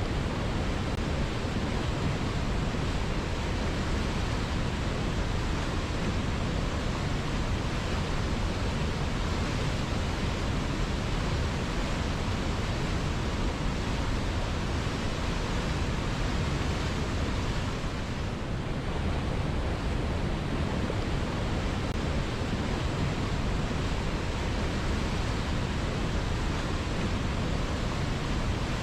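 River water flowing, a steady, even rushing wash with no breaks.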